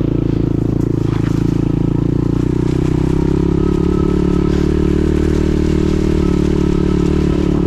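Pit bike engine running at a steady, nearly constant speed as the bike is ridden.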